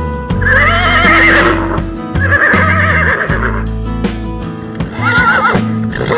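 Background music with a steady guitar-like accompaniment, over which a horse whinnies three times in wavering, quavering calls.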